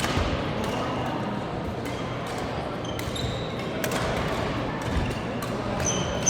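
Badminton rackets striking shuttlecocks in sharp, irregular smacks, mixed with short high squeaks of court shoes on the hall floor, over the echoing din of a busy sports hall.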